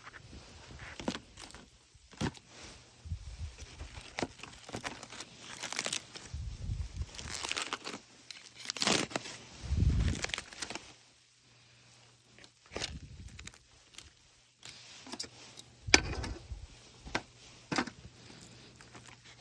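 Handling noises during camp cooking: rustling and crinkling with scattered clicks and knocks, the sharpest knock about three-quarters of the way through.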